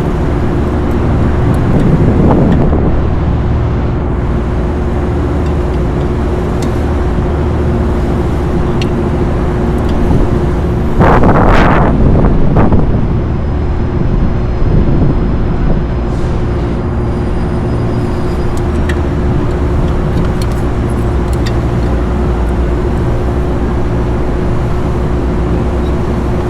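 Steady low machinery drone with a constant hum tone running underneath. A louder rush of noise swells for about two seconds around the middle, with a smaller swell near the start.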